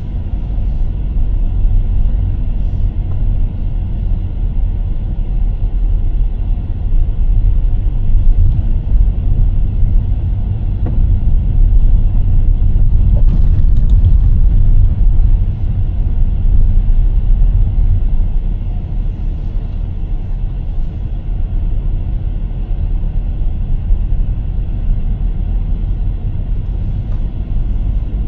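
A car driving along a road: a steady low rumble of engine and tyre noise that swells and eases a little, with a brief click about halfway through.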